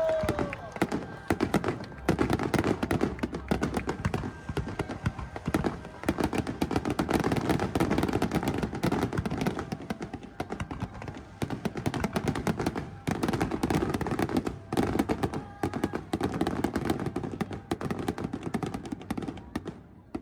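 Fireworks barrage: a dense, rapid run of bangs and crackling pops that swells and eases in waves, thinning out near the end.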